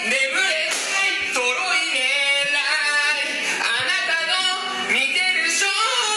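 Singing voices with music.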